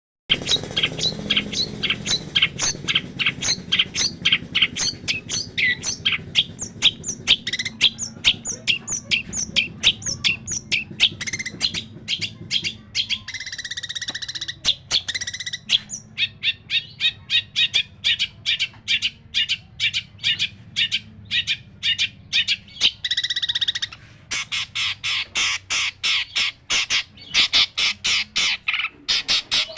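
Long-tailed shrike (cendet) singing in full voice with rough, harsh mimicked phrases: a fast string of short scratchy notes, about three to four a second. There is a longer rasping phrase about halfway through and a denser, quicker run near the end.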